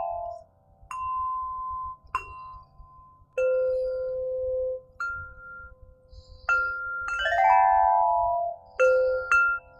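Crystal harp played slowly: single notes struck one at a time, each ringing on and overlapping the next, with a quick rising run of notes about seven seconds in.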